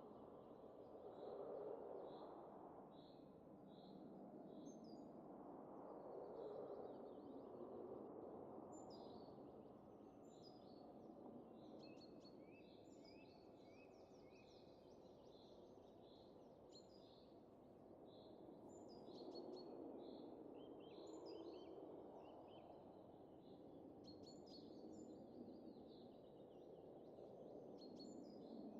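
Faint wind blowing in soft gusts that swell and fade every few seconds, with small birds chirping in quick high notes throughout.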